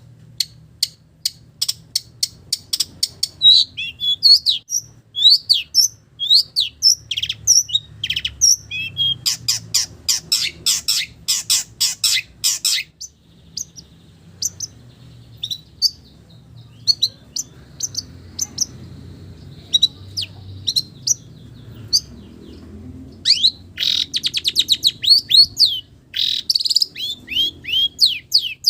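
Long-tailed shrike (cendet) singing a fast, varied song of sharp chirps and rapid trills that imitates other village birds. The song thins to scattered notes for several seconds in the middle, then comes back in a dense burst near the end.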